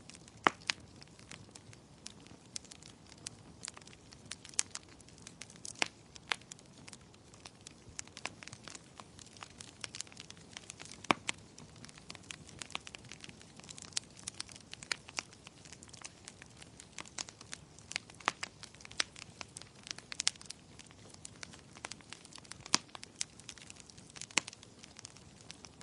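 Wood fire crackling in a fireplace: a soft steady hiss with frequent irregular sharp pops and snaps, a few of them louder.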